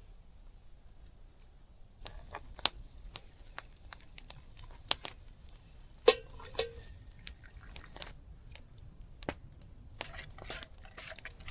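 Camp-cooking handling sounds: scattered clicks, knocks and rustling, with a loud clank about six seconds in and a second one just after, each with a brief ring.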